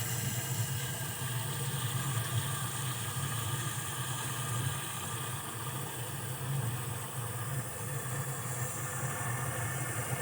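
A steady low hum like an idling engine, with an even hiss over it.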